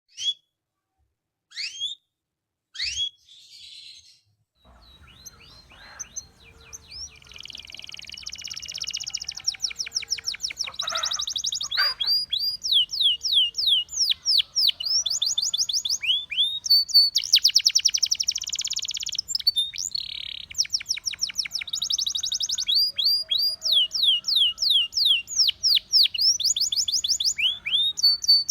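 Canary singing, a Russian singing canary: a few short, separate chirps at first, then from about seven seconds a continuous song of fast, high trills and rolls of rapidly repeated notes.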